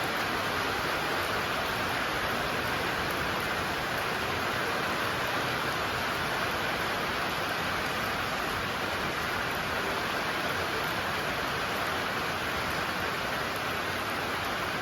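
Steady rain falling, an even hiss with no single drops standing out and no thunder.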